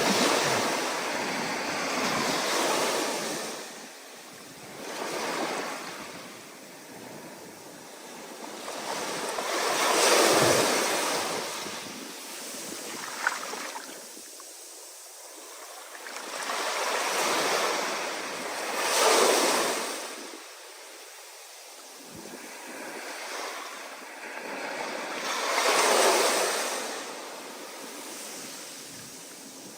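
Ocean waves breaking one after another, each a rush of surf that swells and fades over a few seconds, the biggest crashes about ten, nineteen and twenty-six seconds in. A brief sharp click about thirteen seconds in.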